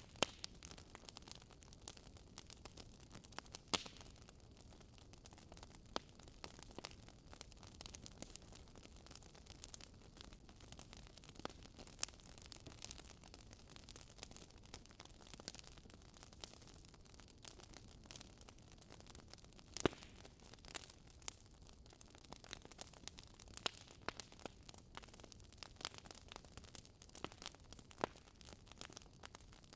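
Wood fire crackling in a fireplace: a faint steady hiss with irregular sharp pops and snaps, one louder snap about two-thirds of the way through.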